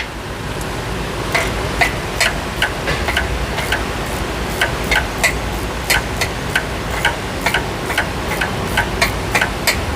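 Hand ratchet clicking in short strokes: sharp, unevenly spaced clicks, about two or three a second, starting about a second in, over a steady low shop hum.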